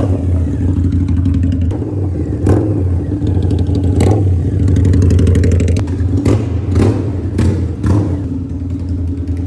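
Motorcycle engine running steadily, with several sharp clicks over it in the second half.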